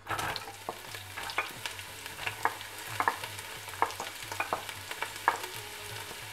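Chopped onion sizzling as it drops into hot cooking oil in a pot: a steady hiss that starts suddenly, with scattered crackling pops throughout.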